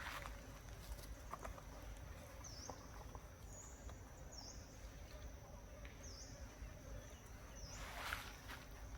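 Faint outdoor ambience: a high, thin steady tone that dips briefly about every second and a half, with scattered light taps and a louder rustle near the end.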